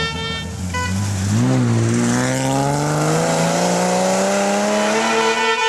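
Historic rally car engine accelerating hard, its note climbing steadily for about four seconds. Spectators' horns sound briefly at the start and again near the end.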